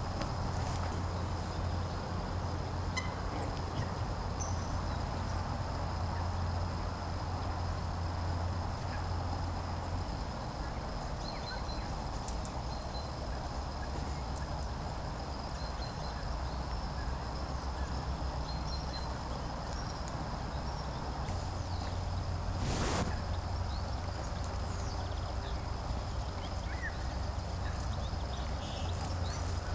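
Outdoor spring ambience with scattered short calls from wild birds over a steady low rumble. One brief louder sound, sharp and covering all pitches, comes about 23 seconds in.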